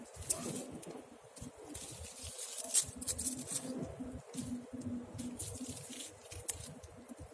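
Campfire crackling, with irregular snaps and pops of burning wood and one sharper pop about three seconds in.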